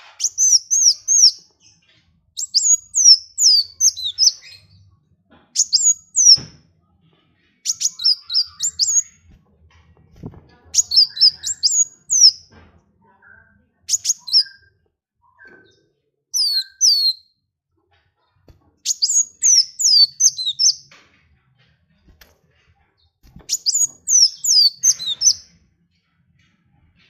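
A small songbird singing repeated phrases of quick, high-pitched, downward-slurred notes. Each phrase lasts one to two seconds, with short pauses between.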